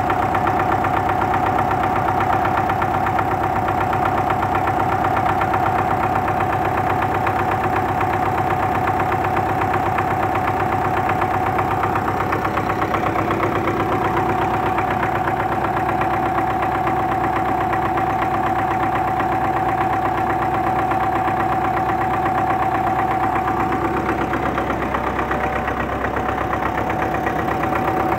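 D-243 four-cylinder diesel engine idling steadily on its freshly repaired and bled fuel injection pump, on its first run after the repair.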